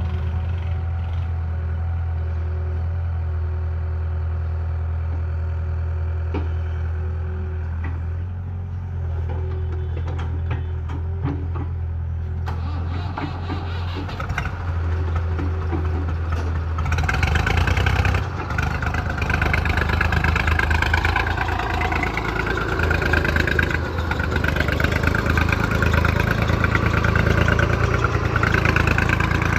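Diesel tractor engine running steadily, then getting louder and rougher a little over halfway through as it works harder pulling in mud.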